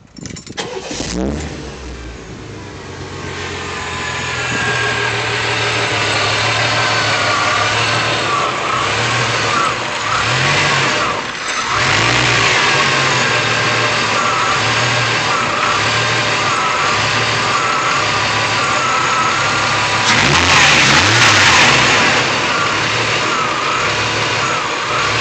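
1993 Chevrolet S10's 4.3-litre V6 with central port (spider) injection cranking and catching, then idling roughly, its note wavering and dipping about once a second. A brief louder rush comes about twenty seconds in. The rough idle persists despite a new spider injector, plugs, cap, rotor, coil, fuel filter, PCV, IAC and EGR valves.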